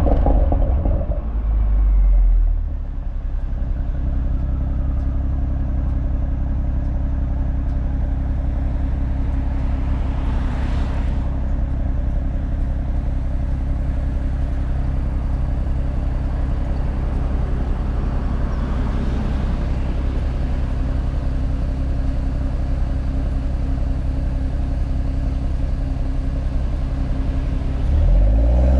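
BMW M340i's B58 3.0-litre turbocharged inline-six at idle through its exhaust, with a steady low burble. It settles from a rev in the first couple of seconds, then rises into another rev near the end.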